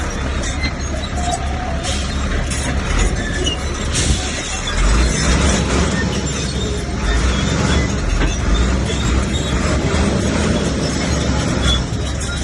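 Heavy diesel earthmoving machinery running with a steady low rumble, broken by short knocks and clanks.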